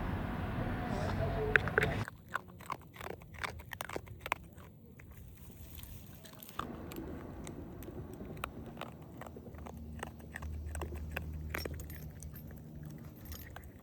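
Road noise inside a moving car, cutting off abruptly about two seconds in. After that it is quiet, with scattered light clicks and taps and a faint low hum.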